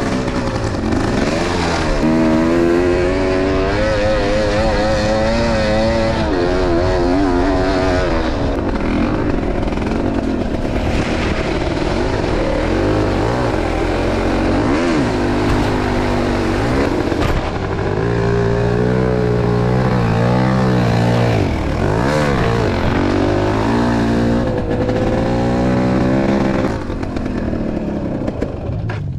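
Enduro motorcycle engine revving up and down repeatedly under load, its pitch rising and falling with the throttle. It drops to a quieter run near the end.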